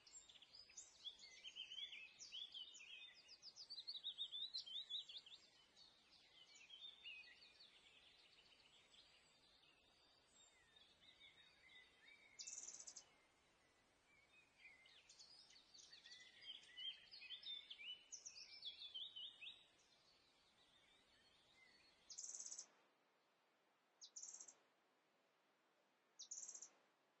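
Faint birdsong: small birds chirping and twittering in quick, busy phrases, then a few short single calls about two seconds apart near the end.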